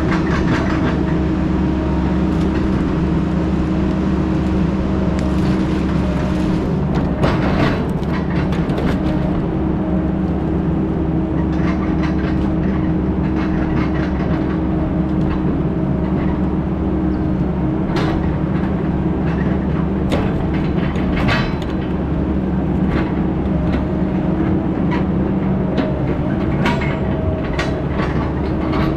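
Heavy diesel engine of logging equipment running steadily under load, with frequent short rattles and clanks of metal throughout.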